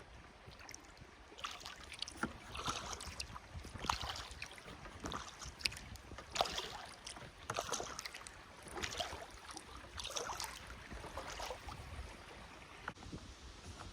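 Kayak paddle dipping into river water, splashing and dripping with each stroke, a stroke about every second that stops near the end. A low wind rumble sits underneath.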